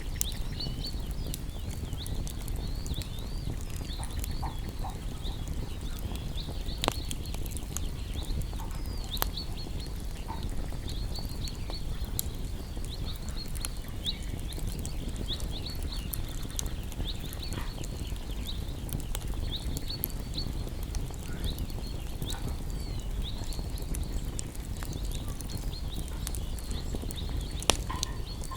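Wood campfire burning with a steady low rumble and scattered sharp crackles and pops, the loudest about seven seconds in and near the end. Many short high chirping calls from small animals sound over it throughout.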